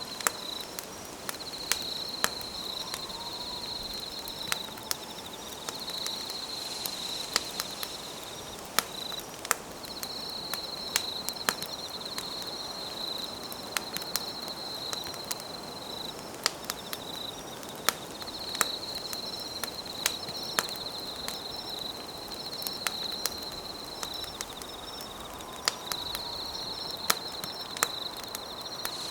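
Campfire crackling with frequent sharp pops, over night insects trilling at a high pitch in long stretches of several seconds with short breaks between them.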